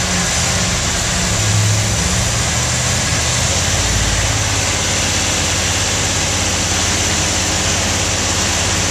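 Freshly rebuilt 1971 Corvette V8 running during its break-in run. The engine note shifts a little in the first few seconds, then holds steady.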